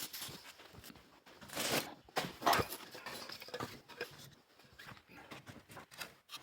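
Split firewood being handled and packed into a box: irregular wooden knocks, clatter and scraping, loudest about two seconds in.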